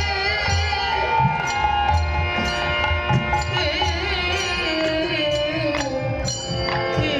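Bengali kirtan devotional music: held melodic lines wavering in pitch over repeated low drum beats.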